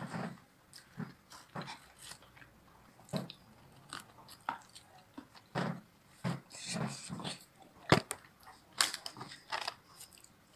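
Close-up eating sounds: biting into and chewing crispy hot-and-spicy honey fried chicken, with irregular crunches and wet chewing noises. A sharp click about eight seconds in is the loudest.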